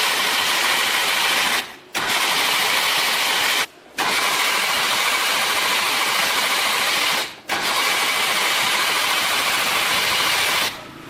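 A loud, steady mechanical hiss in four spells of about two to three seconds each, each cutting off abruptly.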